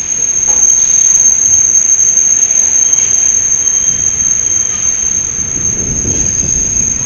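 Passenger train rolling slowly along a station platform with a loud, steady high-pitched metallic squeal from its running gear. A low rumble grows about five and a half seconds in.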